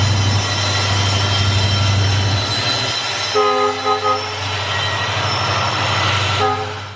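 Diesel train passing: the locomotive's engine gives a low, pulsing hum for the first couple of seconds, then gives way to a steady rush of wheels on track. Its multi-tone air horn sounds in two short blasts about three seconds in, and briefly once more near the end.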